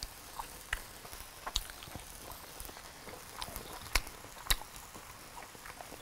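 Eating sounds: a person chewing crispy scorched rice (cơm cháy) and grilled pork chop, with sparse, irregular crisp clicks and crunches, the two loudest about four and four and a half seconds in.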